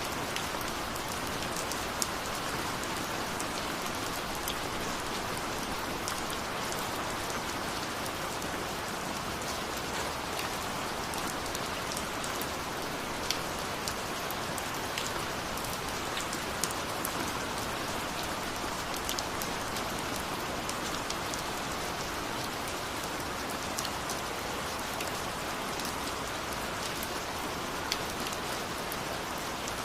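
Steady rain falling, a constant hiss with many sharp individual drops pattering on a surface.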